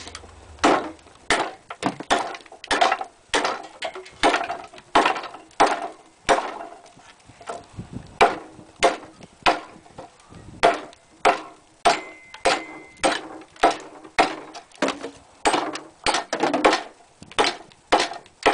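Repeated chops of a blade biting into a block of green, frozen maple, a steady run of sharp woody strikes about one to two a second.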